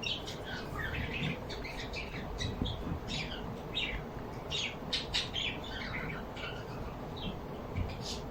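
Several small birds chirping and twittering, a dense run of short overlapping calls.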